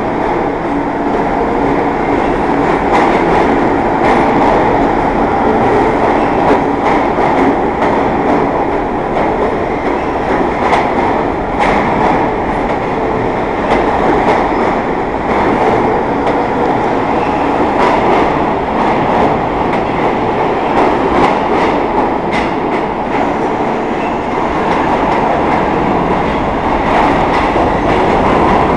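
New York City subway train running on the track: a steady loud rumble of steel wheels on rail, with frequent irregular clicks and clatters as the wheels cross rail joints and switches.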